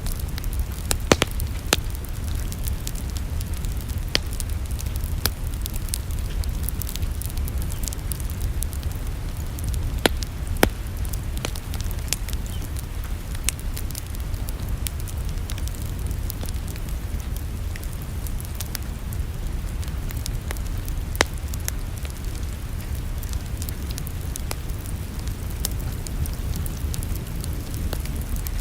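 Wood fire in a fireplace crackling, with irregular sharp pops scattered through a steady low rumble.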